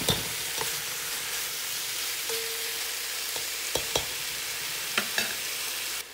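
Beef and sliced onions sizzling in a frying pan as they are stirred with a spatula, which clicks against the pan several times. The sizzle cuts off suddenly near the end.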